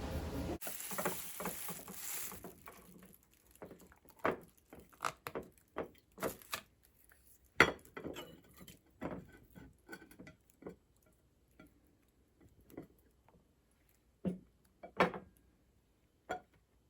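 Small hard objects being handled, making irregular sharp clicks and clinks, after a short hiss near the start.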